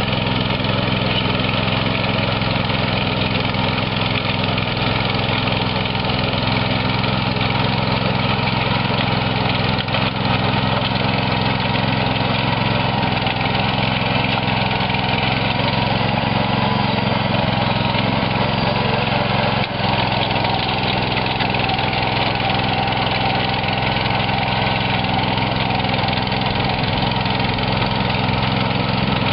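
Gravely Rapid M Series two-wheel tractor's 13 hp engine running steadily, driving a rotary harrow.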